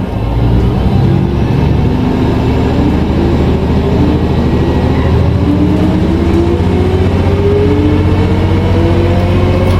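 Car engine sound effect accelerating: a steady low rumble with an engine note that rises slowly in pitch.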